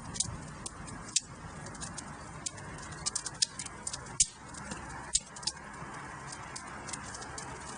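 Wood fire burning in a fireplace: irregular sharp crackles and pops over a steady soft hiss, with a few louder pops in the middle.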